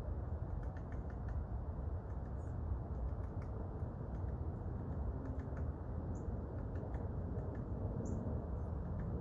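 Irregular light tapping, a woodpecker pecking at wood, over a steady low wind rumble, with a few brief high bird chirps.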